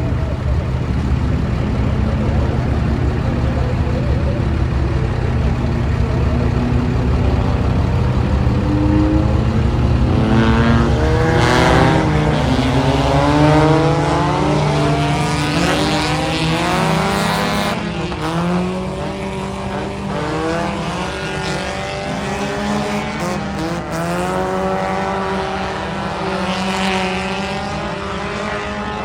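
Several dirt-track race car engines running. From about ten seconds in, their pitch rises and falls and overlaps as the cars rev and pass one another on the track.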